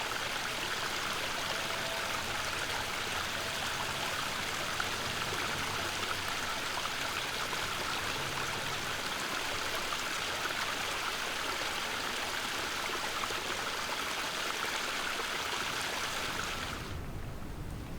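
Small mountain stream running high at a birds' watering spot, a steady rush of flowing water. It drops away sharply about a second before the end.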